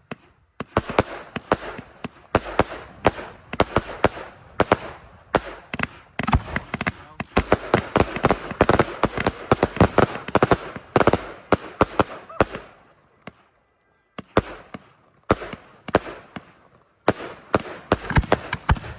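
Fireworks display: a dense barrage of rapid bangs and crackling bursts, breaking off for about a second about two-thirds of the way through, then starting again with further bangs.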